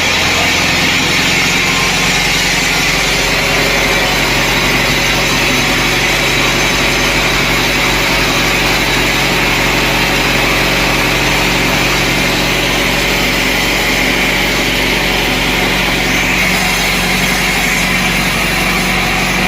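Sawmill machinery running, a loud, even mechanical drone that goes on without a break.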